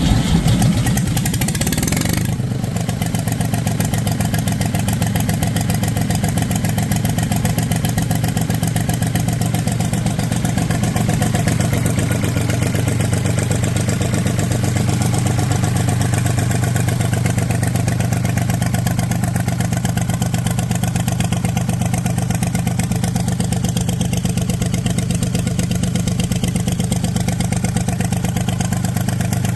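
1975 Ford tractor's three-cylinder diesel engine running after a cold start in extreme cold. It changes about two seconds in and then runs steadily at idle.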